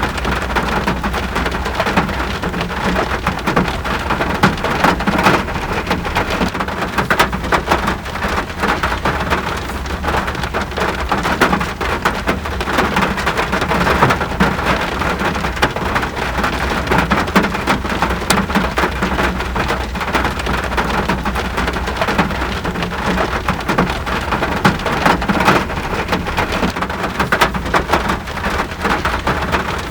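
Steady rain falling, with many individual drops crackling on a hard surface over a constant hiss and a steady low rumble beneath.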